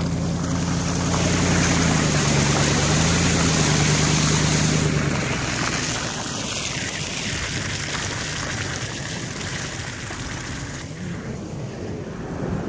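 Vehicle engine running under a loud rushing of water, like a car pushing through floodwater. About five seconds in the engine note fades, leaving a steady rush of water and wind noise.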